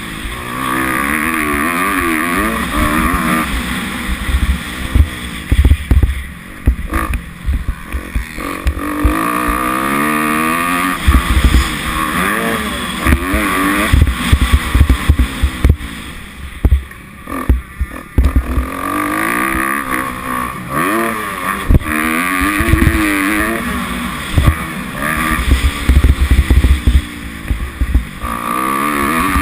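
Kawasaki 250F four-stroke single-cylinder motocross engine being ridden hard, its revs climbing and falling again and again, with a few brief drops in revs where the throttle is closed. Wind rumble and thumps on the on-board camera sit under the engine.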